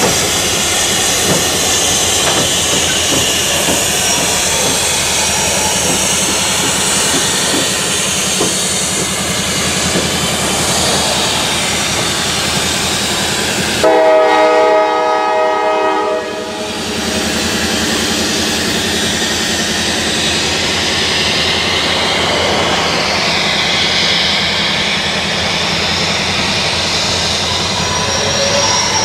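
Empty freight cars rolling past, a steady rumble and clatter of wheels on rail. About halfway through, a train horn blows once for about two seconds.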